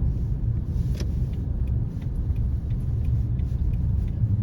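Car driving on a snow-covered road, a steady low rumble of engine and tyres heard from inside the cabin, with a single sharp click about a second in.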